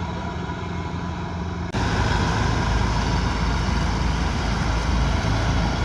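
Kubota DC108X combine harvester's diesel engine running steadily under working load, a low drone. About 1.7 s in the sound steps up abruptly, louder and brighter.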